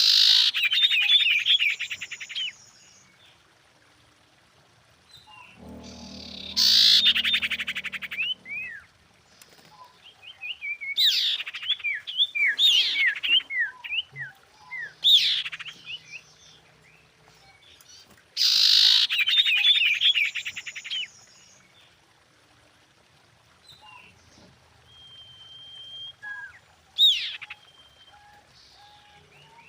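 A female common iora calling: three long buzzy rattling trills, each about two seconds, at the start, about seven seconds in and about nineteen seconds in. Between them come runs of short, quick down-slurred whistles, and near the end one held whistle and a sharp note.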